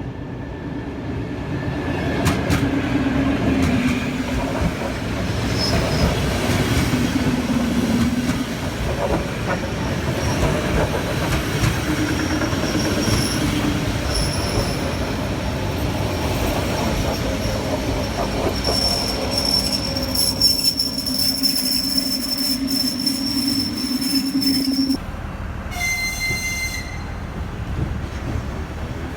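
ER9E electric multiple unit running: rumbling wheel and rail noise with a steady low hum and long stretches of high-pitched wheel squeal. About 25 seconds in the sound changes abruptly, and a short high tone lasting about a second follows.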